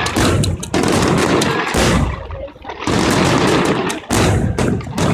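Aerial firework shells bursting in a rapid barrage of bangs and crackling, coming in loud surges about a second long.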